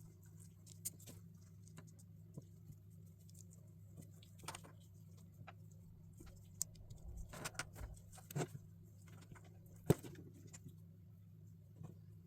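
LEGO plastic pieces being handled and pressed together: scattered small clicks and taps, busiest a little past halfway, with one sharper click near the end.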